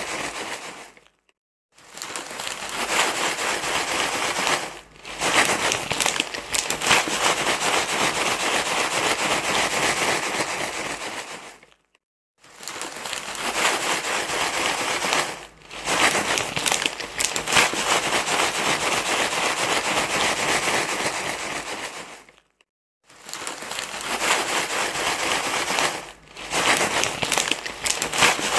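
Crinkly material being rustled and crumpled in a loud, dense crackling stream, broken by brief pauses every three or four seconds in a repeating loop.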